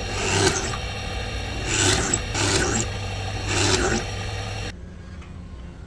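Wood being filed or rubbed by hand in about four long, scratchy strokes over a steady low hum. The sound cuts off abruptly about three-quarters of the way in.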